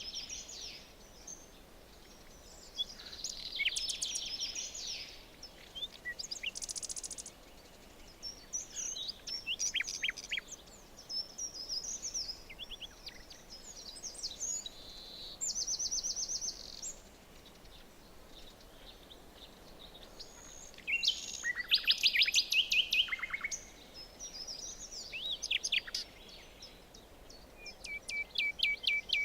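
Several small songbirds singing and chirping in a forest, in separate phrases of high trills and quick repeated notes, over a faint steady background hiss.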